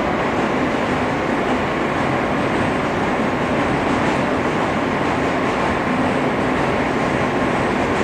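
Steady running noise of an R160 subway car heard from inside the car as it travels between stations: a constant rumble of wheels on rail with a faint steady hum.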